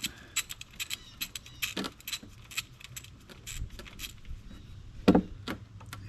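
Irregular metallic clicks and clinks of a socket wrench and tools working the 12 mm oil drain plug on a motorcycle's underside, with one louder knock about five seconds in.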